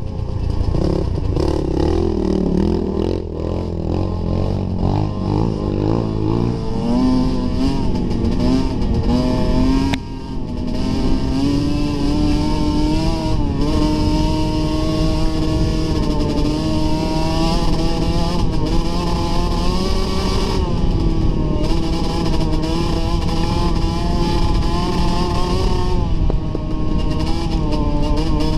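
Dirt bike engine running hard, uneven and lower for the first few seconds, then held at high revs with its pitch slowly climbing, with a brief drop in level about ten seconds in.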